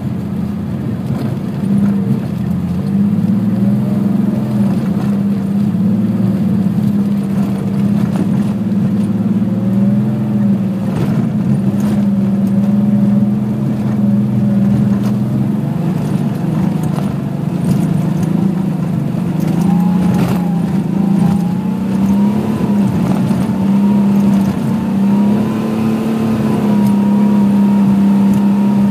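Car engine pulling hard, heard from inside the cabin while racing on snow and ice, its revs rising and falling as the driver accelerates and lifts, with occasional knocks as the car runs over rutted snow.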